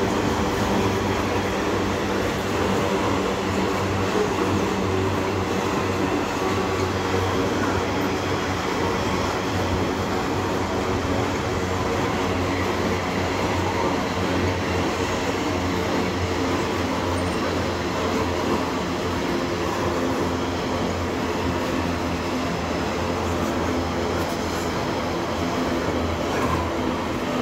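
Loaded iron-ore hopper wagons of a long freight train rolling past without a break, their steel wheels running on the rails in a steady, even noise.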